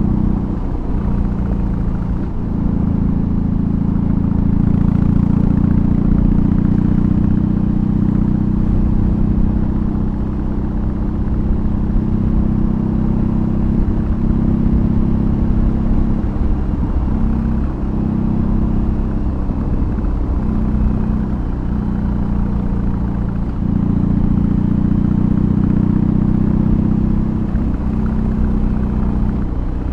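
BMW R18's 1802 cc air/oil-cooled boxer twin, fitted with a custom exhaust, running on the road with a low, steady exhaust note. The revs drop and pick up again several times, about two seconds in, between about sixteen and twenty-four seconds, and near the end.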